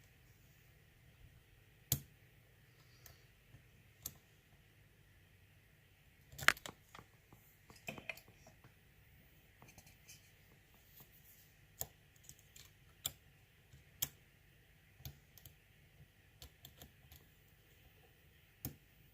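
Lock pick and tension tool working in an ASSA euro cylinder: scattered small metallic clicks and taps, one every second or so, the loudest about six and a half seconds in.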